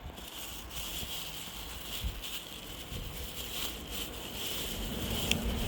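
Rustling and crinkling as a geocache's contents, a small bag and a foil-wrapped log list, are handled and unwrapped, with a steady high hiss behind and a sharp click about five seconds in.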